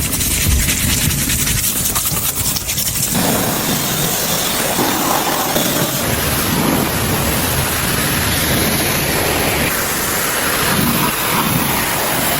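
High-pressure water spray hissing steadily as a muddy vehicle is washed, becoming fuller about three seconds in.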